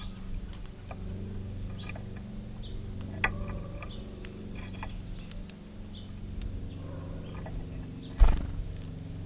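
Bird-feeder ambience: a steady low hum with a few short, high chirps and small taps. One loud thump comes about eight seconds in.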